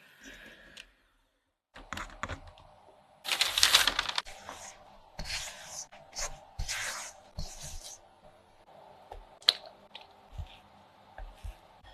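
Kitchen food-preparation handling noises: several short noisy bursts, the loudest about three seconds in, with scattered clicks and taps between them.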